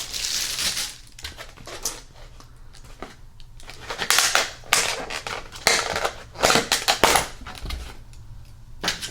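Takeout food packaging being handled and opened: crackling, crunching and snapping in several irregular bursts, the loudest cluster a little past the middle.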